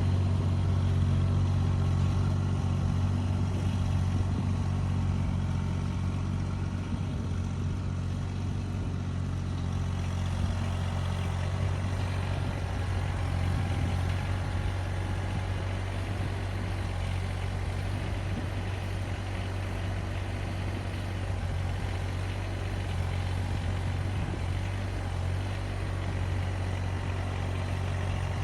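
An engine running steadily at an even speed, with a low, constant hum.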